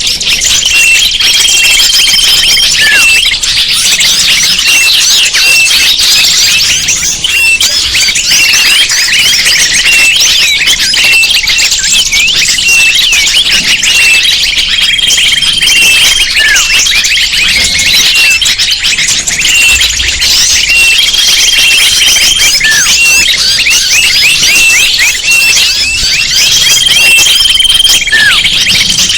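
Loud, dense chorus of many small birds chirping and twittering over one another, with a steady high whistle about a second long repeating every few seconds and occasional short falling whistles. It is a bird-lure call recording, played to draw wild birds in.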